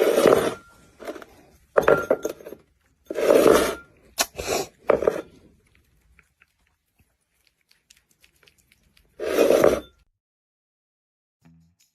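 A run of loud crashes and clatters of hard objects, several in quick succession, then a pause and one more crash near the end.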